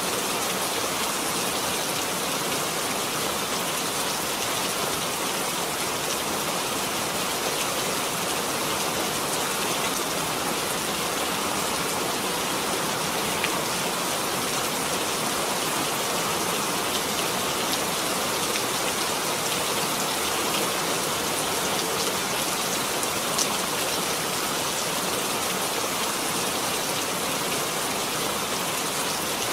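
Steady rain falling, with a few faint, sharp drip ticks.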